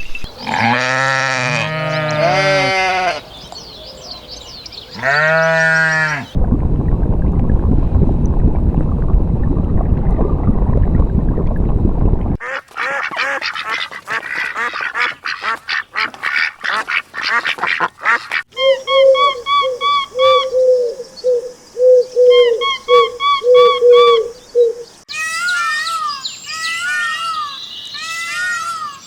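A run of different farm animal calls one after another, with ducks quacking in quick repeated series in the later part. Earlier in the run there is a long, low, rough stretch.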